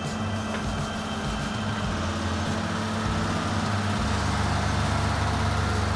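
Heavy machinery engine running steadily, a low hum over broad mechanical noise that shifts in pitch about four seconds in.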